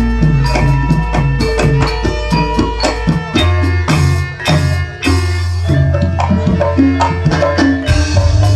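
Instrumental Javanese gamelan-style music: quick hand-drum strikes and ringing struck metallophone notes over a steady bass.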